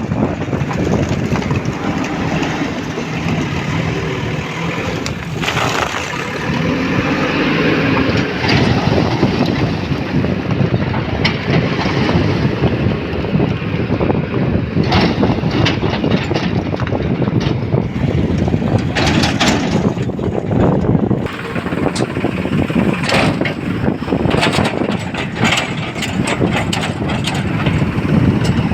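Heavy diesel engine of a working loader or tractor running steadily, its pitch rising and falling a few times early on, with scattered sharp knocks and clatter, more of them in the second half.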